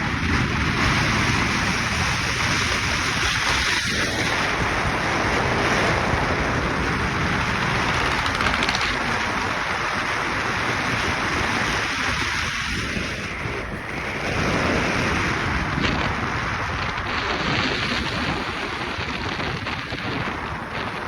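Wind rushing over the microphone, a steady loud buffeting, with motorcycle engine noise underneath.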